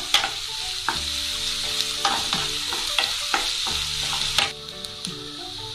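Chopped onions, green chillies and curry leaves sizzling in hot oil in a non-stick kadai, with a spatula scraping and tapping the pan as they are stirred. The sizzle quietens somewhat about four and a half seconds in.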